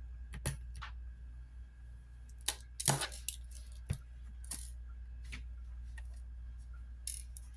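Scattered small metallic clicks and taps from a precision screwdriver and tiny screws being handled on the phone's frame, about half a dozen separate ticks over a steady low hum.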